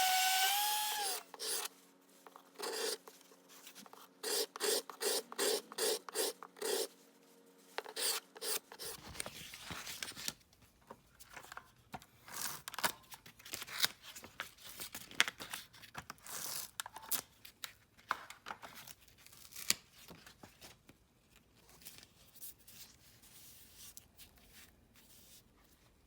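Steel plane iron being sharpened by hand, rubbed back and forth on an abrasive in a run of short, uneven scraping strokes. A power tool winds down in the first second.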